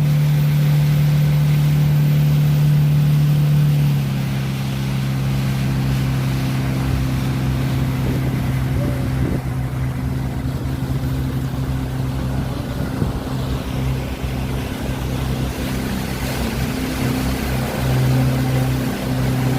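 Motorboat engine running steadily with a low hum. It eases down slightly in pitch and loudness about four seconds in, then runs on.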